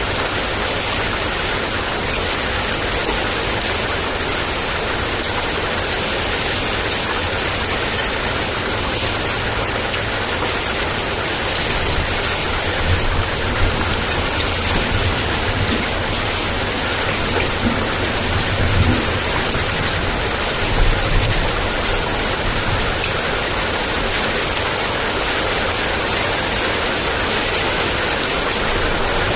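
Heavy rain pouring steadily, an even dense hiss. Low thunder rumbles through the middle of it.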